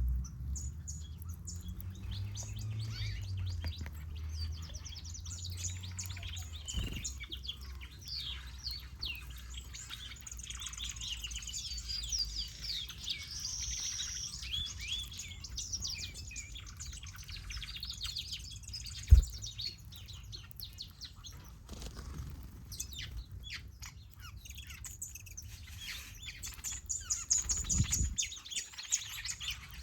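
Many small aviary birds, finches and softbills, chirping and twittering all at once in short overlapping calls. A low rumble sits under them in the first several seconds, and a single sharp knock comes about two-thirds of the way through.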